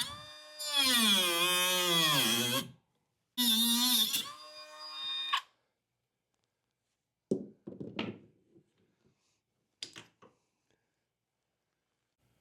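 A small handheld power tool's motor whining through the thick AC hose that a razor knife would not cut, its pitch dropping as it bogs down. It runs again briefly a second later. After a pause come a few short clunks of tools or parts being handled.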